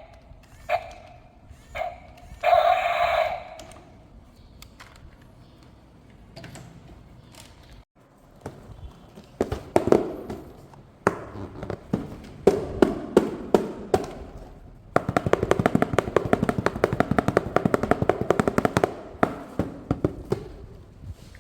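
Sharp clicking and rattling of plastic toy parts being handled, with a fast, even run of ticks about two-thirds of the way through.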